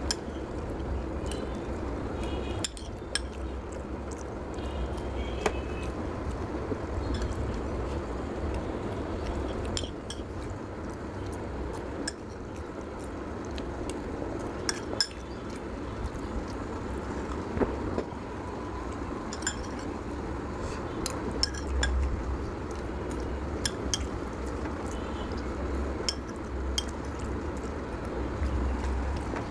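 Cutlery clinking against a plate as a plate of noodles is eaten, with scattered sharp clinks over a steady low hum.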